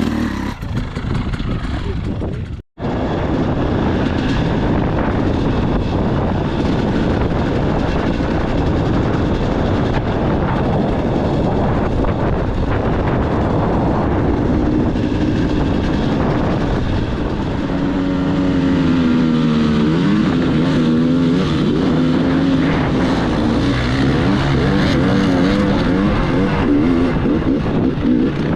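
Dirt bike engine running on a ride, its pitch rising and falling with the throttle over a steady rush of noise, with a brief break about three seconds in.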